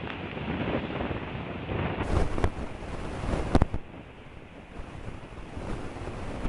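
Wind buffeting an outdoor nest-camera microphone: a gusting rush that eases after about three and a half seconds. A few sharp knocks come through it.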